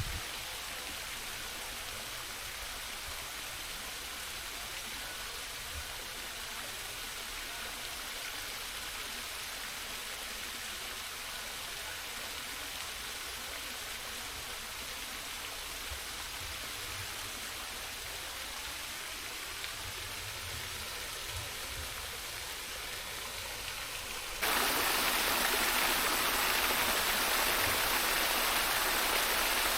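Steady rush of running water, like a forest stream. About 24 seconds in it jumps suddenly to a louder, hissier rush.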